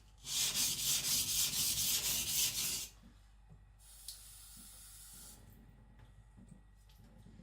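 Niolox steel nakiri blade scraped back and forth on a whetstone in quick, even strokes while being thinned, the hard steel slow to grind; the strokes stop about three seconds in, and a brief soft hiss follows.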